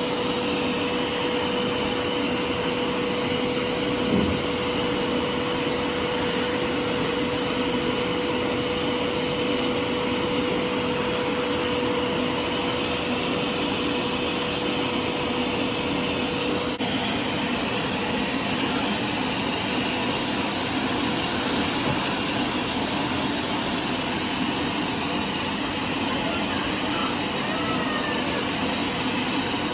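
Hoover carpet cleaner's suction motor running steadily with a constant whine while it vacuums rinse water out of a freshly washed carpet.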